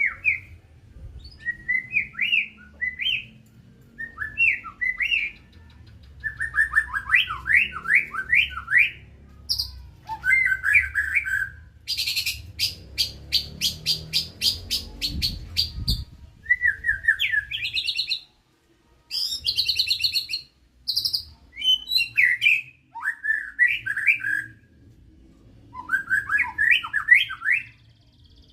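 White-rumped shama (murai batu medan) singing: loud phrases of quick whistled notes, separated by short pauses. In the middle comes a run of fast repeated high notes, about five a second, lasting about four seconds.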